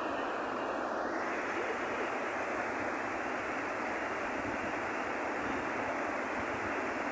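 Steady roar of the Iguaçu Falls: a constant, unbroken rush of falling water.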